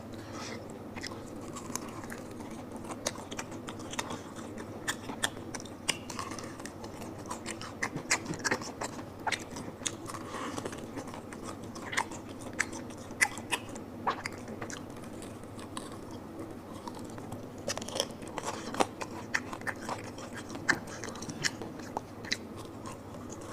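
Close-miked mukbang eating: a person biting and chewing food, with irregular crisp crunches and wet mouth clicks.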